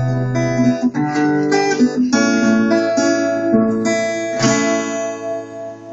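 Acoustic guitar playing the intro of a song, with a chord struck every second or so; the last chord, about four and a half seconds in, rings on and fades away.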